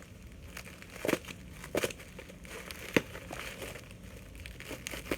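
Plastic packaging crinkling and rustling as it is pulled off, with three sharp crackles in the first three seconds.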